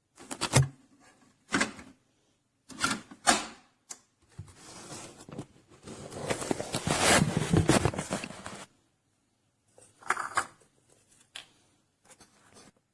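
Handling noise: a few sharp clicks and knocks, then about four seconds of rustling, scraping noise, then a few more clicks near the end.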